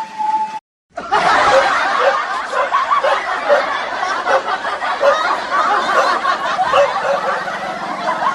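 Many people laughing together, like a laugh track, starting after a brief cut to silence just under a second in.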